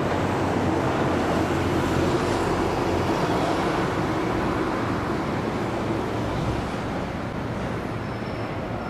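A train running along the tracks, a steady rumble mixed with city traffic noise, easing off a little in the last few seconds.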